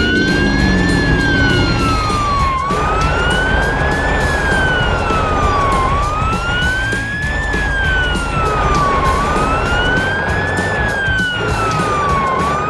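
Police siren wailing, its pitch rising and falling in a slow cycle about every three seconds, four times over, above background music with a steady beat.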